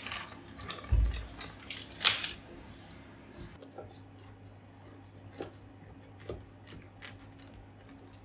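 Small objects being handled: a low thump about a second in, a sharp click with a rustle just after, then lighter clicks and taps, over a faint steady low hum.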